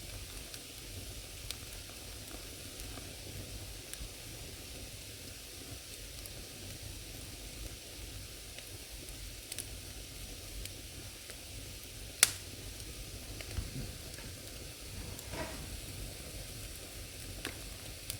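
Firewood burning in an old fireplace: a steady soft hiss with scattered crackles, and one sharp pop about twelve seconds in.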